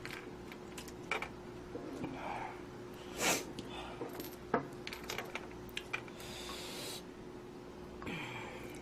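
Close-up eating sounds: scattered light clicks and knocks of a spoon and chopsticks against a bowl, with mouth noises of slurping and chewing stew, one louder noisy stroke about three seconds in and a short hiss around two thirds through.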